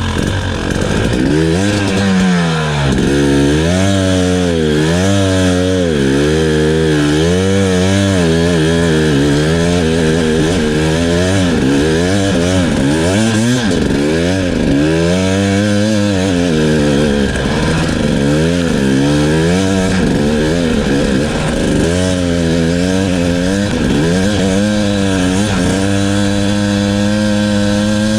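Two-stroke dirt bike engine being ridden, revving up and down again and again as the throttle is worked, each rise and fall lasting a second or two. Near the end the engine holds a steadier, higher pitch.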